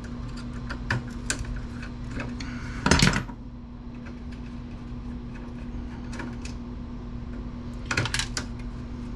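Small metal clicks and clinks of tools, screws and steel computer-case parts being handled during disassembly, with two louder clattering bursts about three seconds in and near the end.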